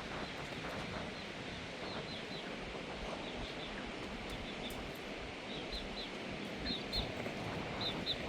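Small high-pitched bird chirps, singly and in quick pairs, repeating more often in the second half, over a steady background hiss.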